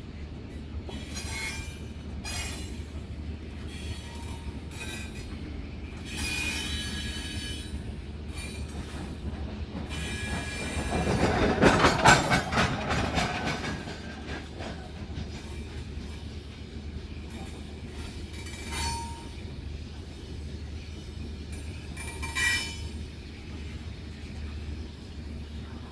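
Long iron-ore freight train running past: a steady low rumble, with high metallic wheel squeals about six seconds in and again near the end. A loud surge of clattering rumble comes about eleven to thirteen seconds in.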